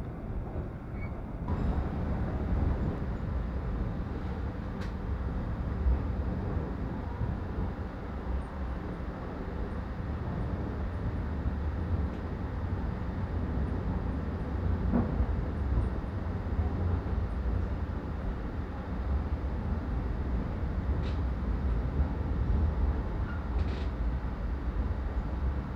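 Steady low rumble of a passenger train coach running along the track, heard from inside the coach; it gets louder about a second and a half in, with a few faint clicks.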